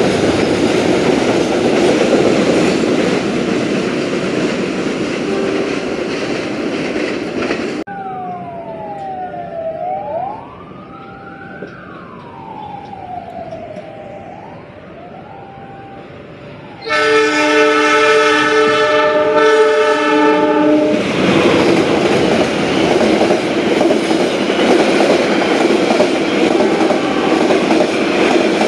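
A train running past on the rails with wheel clickety-clack. After an abrupt cut comes a quieter stretch of gliding tones that rise and fall. Then a train horn sounds one chord for about four seconds with a brief break, and the train runs past again.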